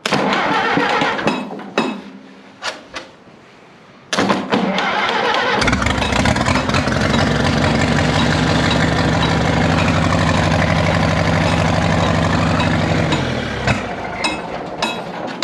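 A 1947 Case Model S tractor's four-cylinder engine is cranked, catches about six seconds in, and runs for around eight seconds before stopping. It runs rough, "grumpy".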